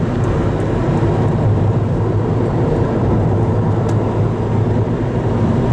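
Steady engine and road noise of a car being driven, a constant low hum.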